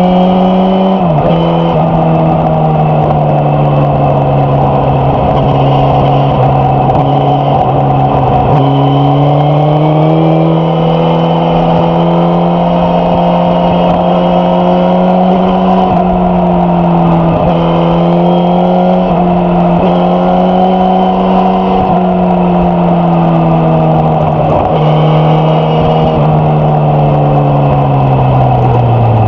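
Suzuki GSX-S1000F's inline-four engine and exhaust running under load, its pitch slowly rising and falling with the throttle. The note dips sharply and briefly about a second in and several more times, then falls away near the end.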